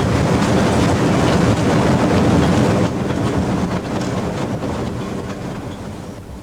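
Train rolling along the rails with a clattering of wheels over the track joints, loud at first, dropping about three seconds in and then fading away.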